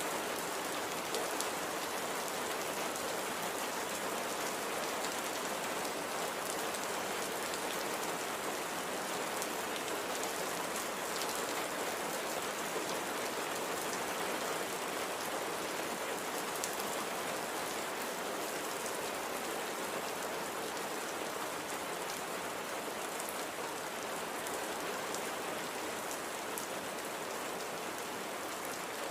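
Steady light rain falling, an even hiss with the fine patter of individual drops.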